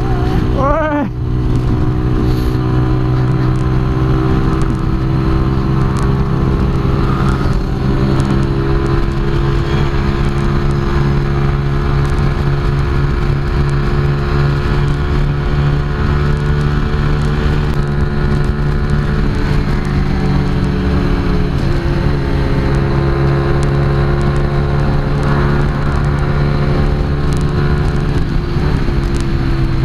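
Keeway RKS 125 motorcycle's single-cylinder engine running at steady high revs while the bike cruises, heard from the rider's seat with wind rush. The engine note dips and wavers briefly about a second in, then holds an even pitch.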